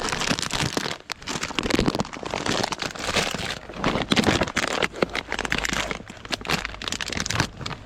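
Plastic bag of nuts crinkling and crackling as it is handled, in irregular rustles with short pauses.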